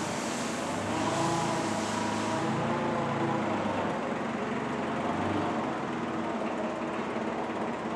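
A vehicle running steadily, a continuous mechanical noise with a few held hum tones, with extra hiss over the first couple of seconds.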